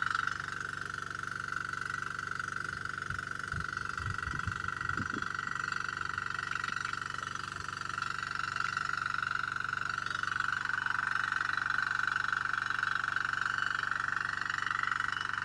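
Honda diesel-engine water pump running steadily under irrigation load: a constant high-pitched hiss-like tone over a faint low engine hum, with a few soft low knocks about three to five seconds in.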